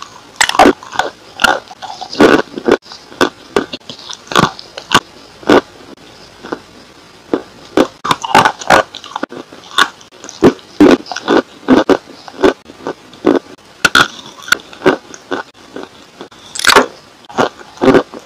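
Close-miked biting and chewing of a chalky white slab, with sharp crunches at an uneven pace of about one or two a second.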